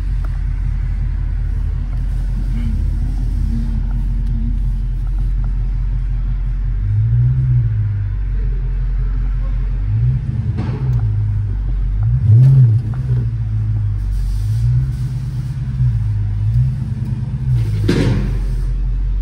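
A Dodge Charger SRT 392's 6.4-litre HEMI V8, heard from inside the cabin, running at a low idle rumble on its stock exhaust with the mid mufflers still in place. The revs swell and settle several times as it creeps forward on light throttle, most strongly past the middle. A short burst of noise comes near the end.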